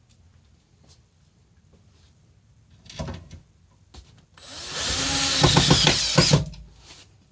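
Power drill with a Phillips bit driving a seat screw: a short burst about three seconds in, then a longer run of about two seconds.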